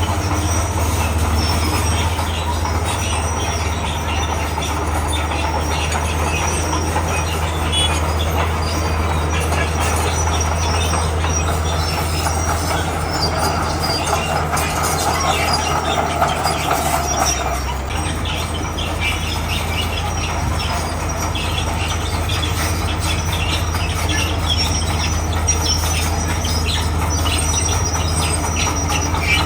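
Komatsu crawler bulldozer at work: its diesel engine runs with a steady low drone while the steel tracks clank and rattle continuously. A squeal rises and fades in the middle. The engine note changes about two-thirds of the way through.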